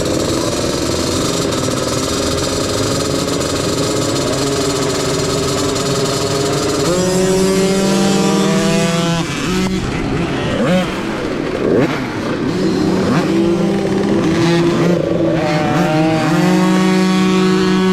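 Mini motocross bikes racing on a dirt track, over a steady rushing noise. A pitched motor whine climbs as a bike accelerates, about seven seconds in and again near the end.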